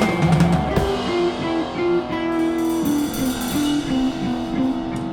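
Live blues-rock band playing an instrumental break: a drum kit keeps time under a melody of single sustained notes stepping up and down, with guitar in the mix.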